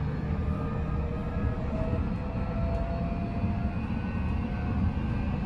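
Odakyu 5000-series commuter train running between stations, heard inside a motor car: steady rumble of wheels on rail with faint whining tones from the Mitsubishi full-SiC VVVF inverter and traction motors.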